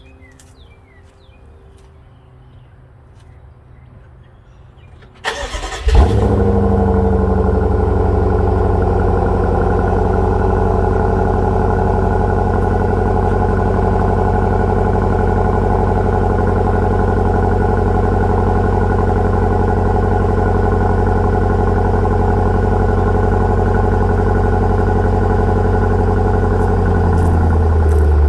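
Cold start of a 2013 BMW 750Li's twin-turbo V8 through a GT Haus Meisterschaft axle-back exhaust. About five seconds in, the starter cranks briefly and the engine catches with a loud flare, then it holds a steady fast cold idle that drops slightly near the end.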